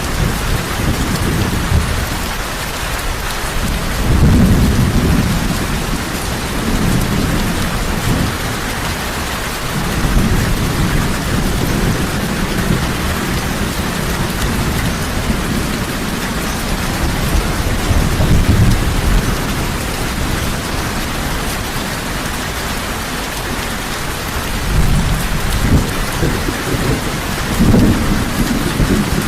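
Heavy rain falling steadily, with low rolls of thunder swelling and fading several times, strongest about four seconds in and near the end.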